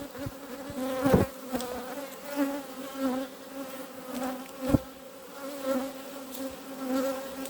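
Honeybees buzzing loudly in a steady hum around an opened hive, the colony stirred up enough that the beekeeper sets out to calm them. Two sharp knocks cut through, about a second in and again near five seconds.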